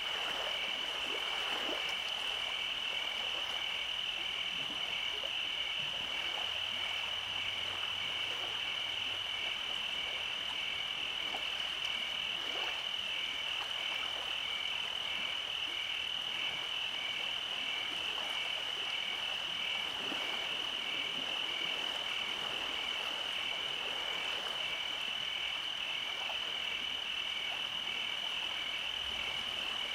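Night chorus of calling animals: a steady high-pitched trill with a second, lower call pulsing evenly a little over once a second.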